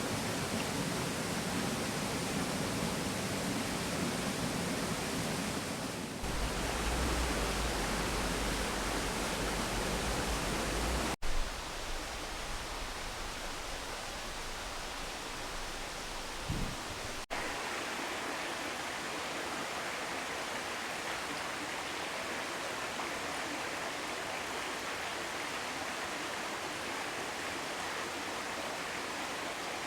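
Mountain stream flowing: a steady rush of running water over rocks. Its level and colour change abruptly a few times, about 6, 11 and 17 seconds in.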